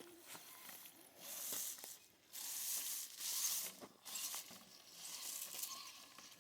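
RC crawler trucks working over the gravel and rocks of a creek bed: faint crackling and hissing in swells of a second or two, with a few small clicks.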